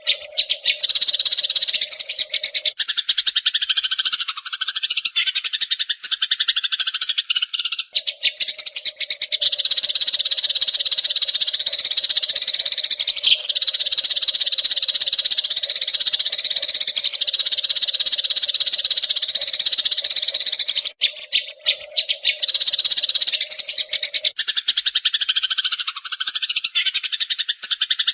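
A flock of Eurasian tree sparrows chirping and chattering without a break, a dense, rapid run of high chirps. A steady low tone sits underneath in some stretches, dropping out for a few seconds twice.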